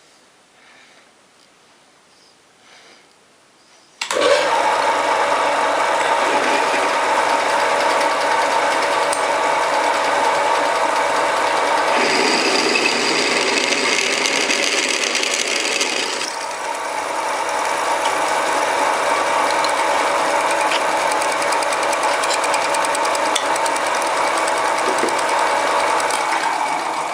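Home-built mini lathe with a 1 hp (750 W) single-phase motor switched on about four seconds in and running steadily with a hum and whine. The sound turns louder and harsher for a few seconds in the middle, then dies away near the end.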